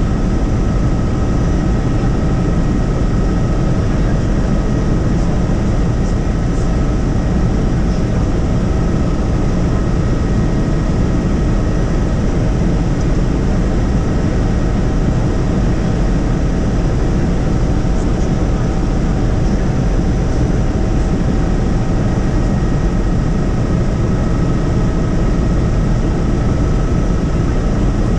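Helicopter in flight, heard from inside the cabin: a steady, loud drone of rotor and turbine with a constant high whine over it.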